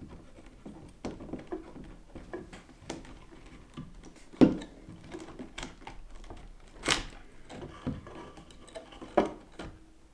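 Small clicks, taps and clatter of a screwdriver, screws and parts being handled while the weight is removed from a garden-scale model locomotive. A few sharper knocks stand out, about four and a half, seven and nine seconds in.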